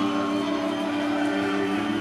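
Live rock concert recording playing, with held electric guitar notes ringing steadily.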